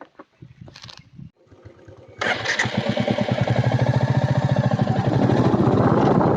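Motorcycle engine starting about two seconds in after a few faint clicks, then idling with an even pulsing beat.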